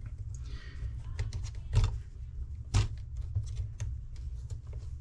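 Irregular small clicks and taps of parts and tools being handled while an RC car is put back together, over a steady low hum.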